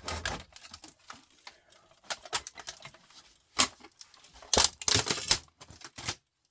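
Irregular clicks, knocks and rattles of plastic and metal laptop parts being pulled apart and handled by hand, with a run of louder clatters around the middle.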